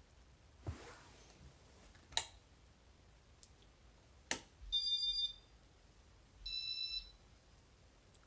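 Three sharp switch clicks followed by two short electronic beeps of several tones at once, each about half a second long. This fits a Casablanca flick-mode ceiling fan control answering a wall-switch flick.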